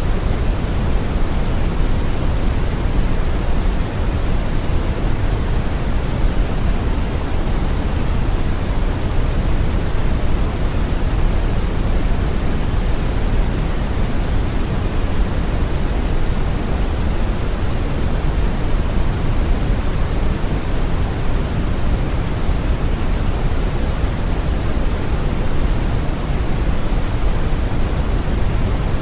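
Brown noise: a steady, deep rushing hiss, strongest in the low end, with no changes or events.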